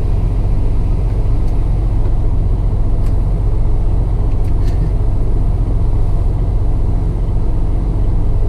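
Semi truck's diesel engine idling steadily, a low, even rumble, with a couple of faint clicks partway through.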